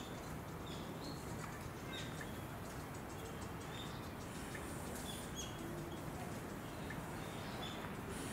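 Small birds chirping: short, scattered calls over a steady low background hum.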